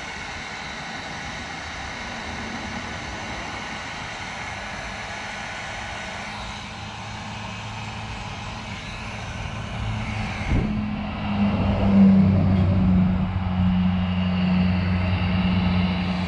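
Heat gun blowing steadily, melting the solder in solder-seal wire connectors. About ten seconds in there is a click, and the sound changes to a louder, lower hum.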